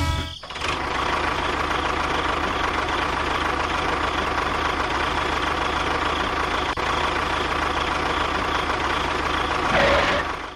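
A motor running steadily with an even, noisy hum, starting about half a second in and cutting off suddenly at the end.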